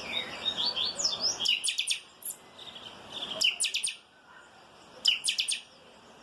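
A chanchão singing its 'calçada baixa' song: quick sliding whistles followed by a rapid burst of sharp notes, with similar bursts repeated about three and five seconds in.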